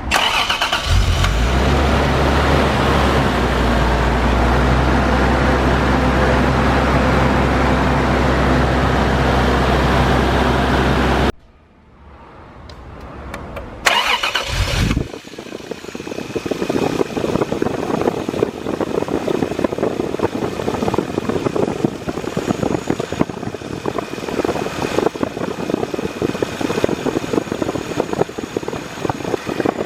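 Toyota Supra A70's 7M straight-six engine running at a steady speed for about eleven seconds, then cutting off abruptly. About three seconds later a rougher, fluctuating car noise starts suddenly and runs on.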